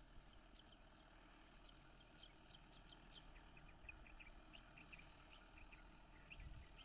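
Faint small-bird chirps, many short calls in quick succession, over a quiet background.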